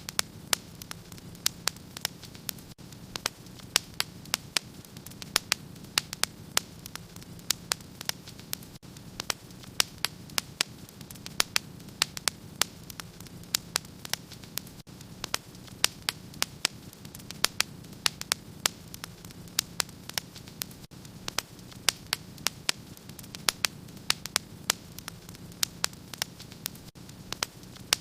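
Fireplace fire crackling: irregular sharp pops, several a second, over a steady low hum.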